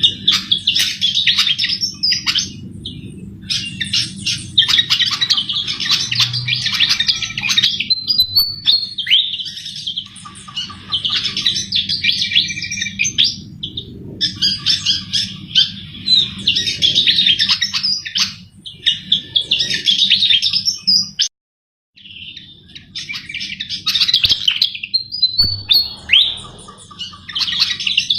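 Sikatan jawa, an Indonesian flycatcher, singing in full, continuous song: rapid, high twittering phrases of a few seconds each with short pauses between them, over a steady low hum. The sound cuts out completely for under a second about 21 seconds in, as at a splice.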